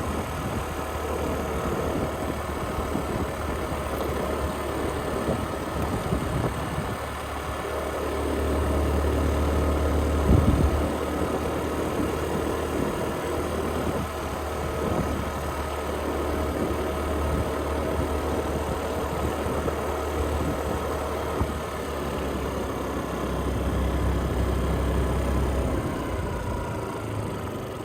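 Motorcycle engine running steadily at low speed, swelling and easing a couple of times, with a constant rush of wind noise.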